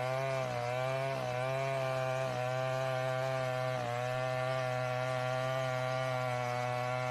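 A small motor running steadily, its pitch wavering slightly.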